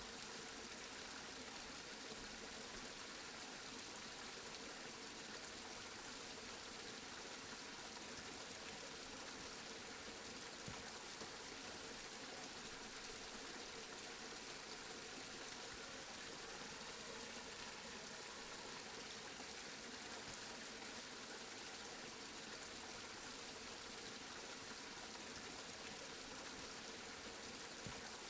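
Steady rain falling, an even hiss of drops with no change throughout.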